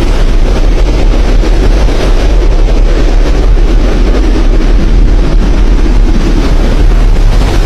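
Strong storm wind buffeting the microphone: a loud, steady rumble with a dense rushing noise above it.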